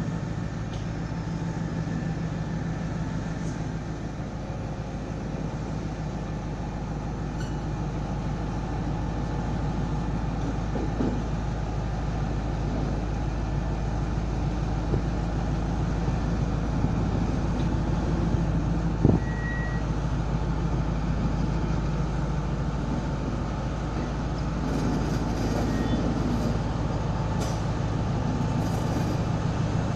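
Diesel locomotive engine running steadily at a low, even throb, with a few short metallic knocks, the loudest about two-thirds of the way through.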